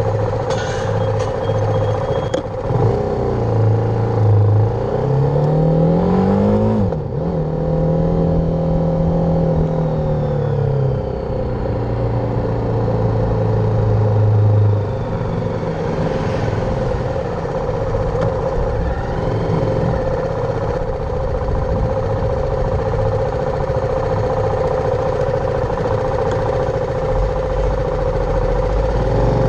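BMW G310R's single-cylinder engine under way: it revs up with rising pitch over the first several seconds, holds a steady note, drops back about ten seconds in, then runs steadily.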